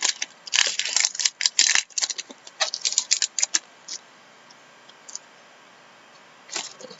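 Quick run of clicks and rustles from hands handling hockey trading cards and pack wrappers, stopping about halfway, with one more short rustle near the end.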